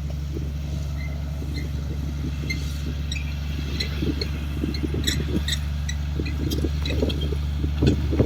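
Komatsu D58 bulldozer's diesel engine running steadily at a low, even drone, with scattered clicks and knocks from about three seconds in and a sharper knock near the end.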